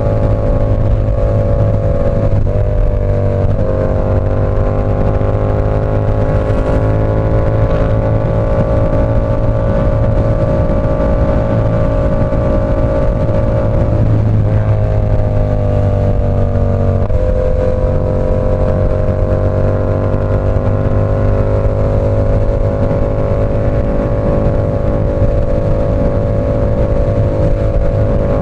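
Yamaha R7's 689 cc parallel-twin engine running through an SC Project CR-T exhaust while riding, holding a steady note. The pitch shifts twice, about two and a half seconds in and again around fifteen seconds in.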